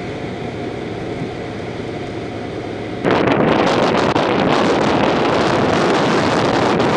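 Storm wind buffeting the camera microphone. A steady low rumble gives way abruptly about three seconds in to louder, harsher wind noise.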